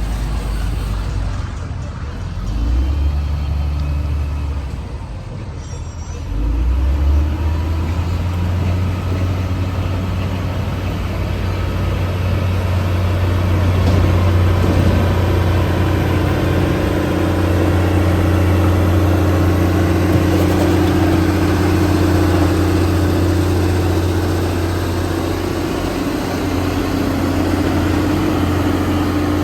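Large bulldozer's diesel engine running under load with a steady low hum, its pitch stepping up twice in the first several seconds and then holding.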